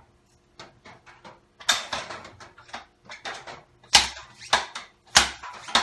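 Irregular clicks and clanks of hand tools and metal parts being handled while a dirt bike's suspension is taken apart, with two sharper knocks about four and five seconds in.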